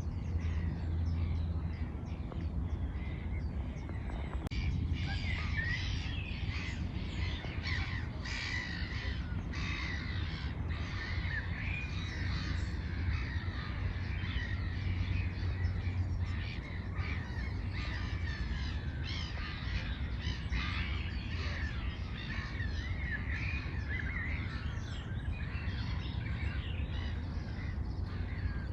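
Many birds calling at once in dense, overlapping short calls, beginning about four seconds in, over a low steady rumble.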